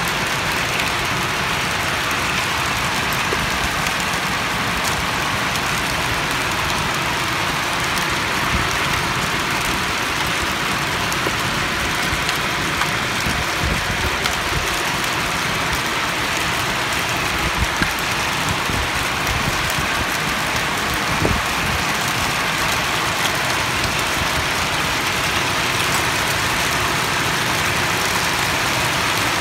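Heavy rain pouring down steadily, an even, dense hiss of drops hitting the roofs, with a couple of sharper drop taps about two-thirds of the way through.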